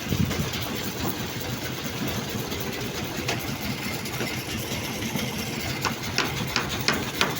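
A construction machine's engine running steadily at a concrete slab pour, with a quick series of sharp knocks in the last second or so.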